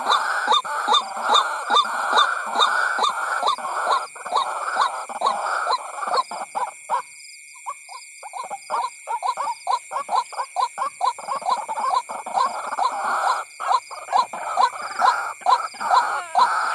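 White-breasted waterhen calling in a fast, harsh, repeated run of notes, about three a second, pausing briefly around the middle before starting again. It is a recorded lure call played to draw waterhens in.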